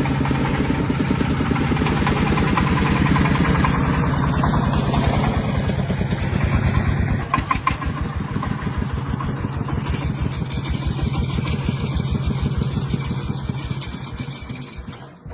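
Tractor engine running with a steady, rapid firing pulse. It eases off slightly about halfway and fades away near the end.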